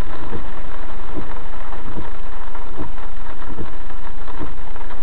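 Car engine idling in a stopped car with rain falling on it, heard as a steady hiss with irregular light taps through a dashcam microphone.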